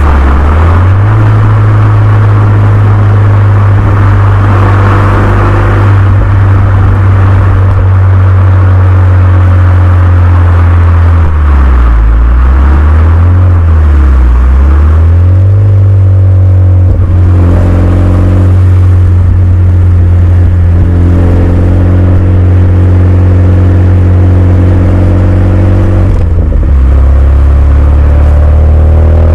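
Renault Mégane 2 RS turbocharged 2.0-litre four-cylinder running through a Milltek cat-back exhaust, with a loud, steady drone at constant revs. About halfway through, the revs fall and climb back twice, then hold steady again, with another drop and rise near the end.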